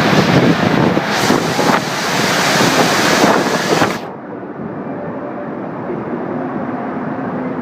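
Gale-force wind buffeting the microphone in loud, gusty rushes. About four seconds in, the sound drops sharply to a quieter, muffled low rush.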